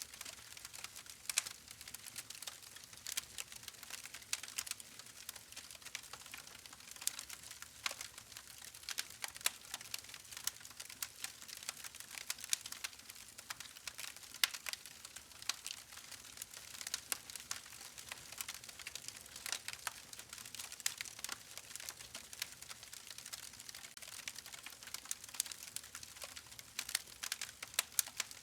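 Campfire burning and crackling: irregular sharp pops and snaps of burning wood over a steady hiss.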